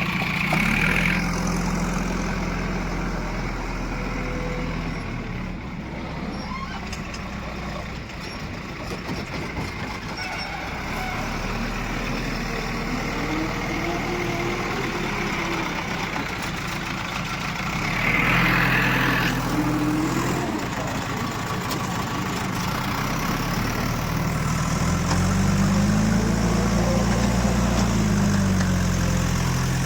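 Heavy diesel machine engine running steadily, with a short hiss twice, and the engine revved up and down near the end.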